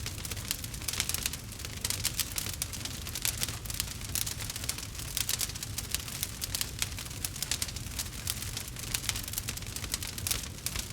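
Campfire crackling: dense, irregular sharp pops and snaps from burning wood over a low steady rumble of the flames.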